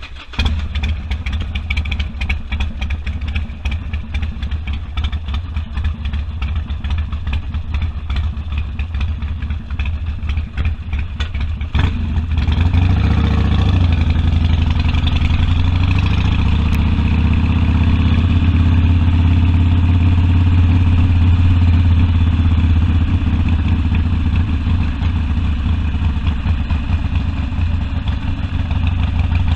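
Harley-Davidson Sportster V-twin engine with an uneven, loping beat, coming in suddenly near the start. About twelve seconds in, its pitch rises as it pulls away, and it then settles into a steady, louder run.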